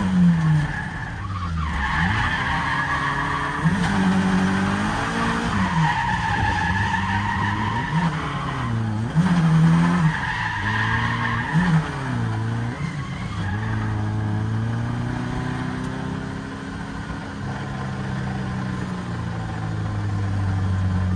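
Nissan 240SX (S13) with a CA18DET 1.8-litre turbocharged four-cylinder, driven hard in drifts, its engine revving up and falling back again and again, with tyres squealing.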